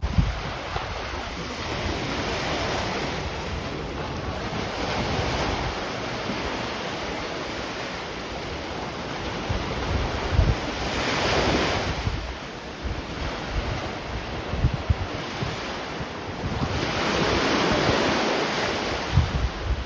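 Sea waves washing in, a steady rush that swells up twice, with wind buffeting the microphone in low rumbles.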